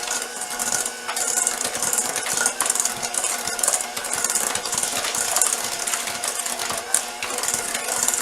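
Electric hand mixer beating cookie batter of butter, sugar, egg and vanilla: the motor runs steadily while the beaters scrape and rattle in the bowl.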